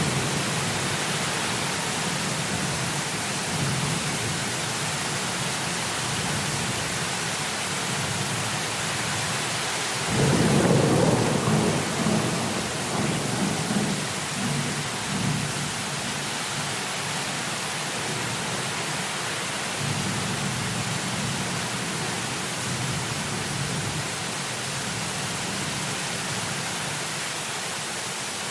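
Heavy rain falling as a steady hiss, with rolling thunder: a loud thunder roll about ten seconds in that rumbles on for several seconds, and a weaker roll about twenty seconds in.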